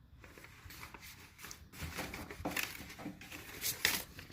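Light rustling and scattered small taps and clicks of hands handling paper and small objects.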